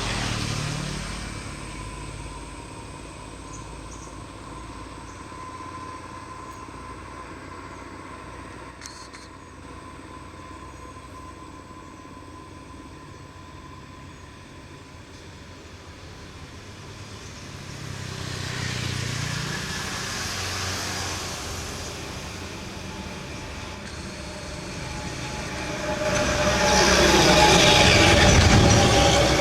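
Road vehicles driving past one after another on a steep climb, engine noise swelling and fading as each passes: a brief pass at the start, another about two-thirds of the way in, and the loudest near the end.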